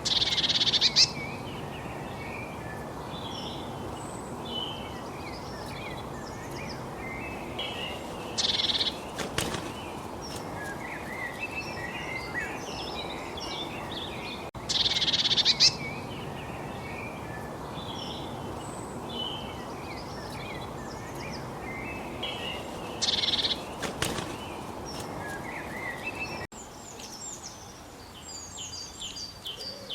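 A chorus of small songbirds chirping and twittering, with louder flurries of high calls every several seconds. Near the end the song changes to a rapid run of evenly repeated high notes.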